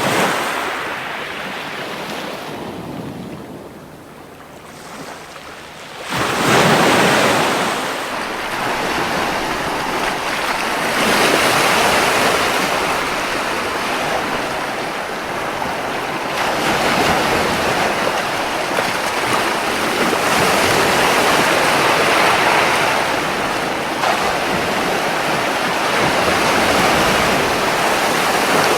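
Ocean surf washing on a beach: the wash dies down to a lull a few seconds in, then a wave breaks about six and a half seconds in, and the surf goes on in slow swells.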